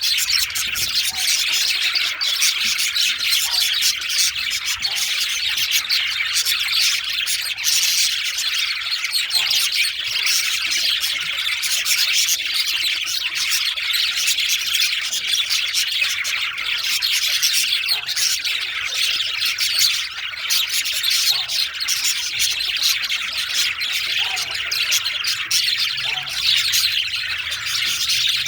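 Several male budgerigars chattering and chirping without pause, a dense stream of rapid chirps with occasional squawks.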